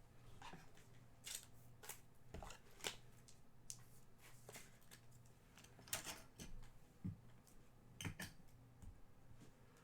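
Faint, scattered clicks and rustles of trading cards being handled and flipped through, over a low steady hum.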